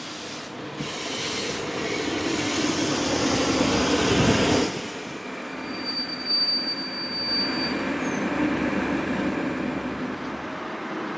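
Passenger train with Corail coaches running past close by: the rush of wheels and air builds to its loudest as the front goes by about four seconds in, then eases to the steady rumble of the coaches rolling past. A thin high squeal, held for about two seconds, comes in about six seconds in.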